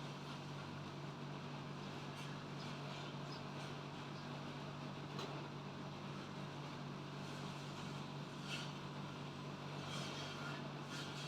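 A steady low machine hum under a faint even hiss, with a few light clicks and taps.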